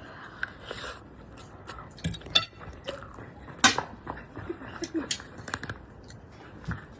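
Scattered clinks and taps of cutlery against dishes, a dozen or so separate strikes, the loudest about halfway through.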